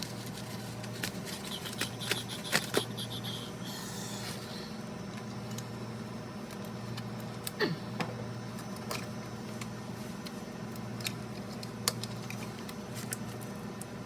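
A steady low hum with scattered light clicks and taps of parts and tools being handled during refrigerator repair work.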